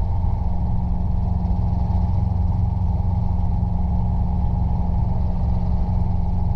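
Robinson R22 helicopter running in flight: a steady, unbroken drone of engine and rotor.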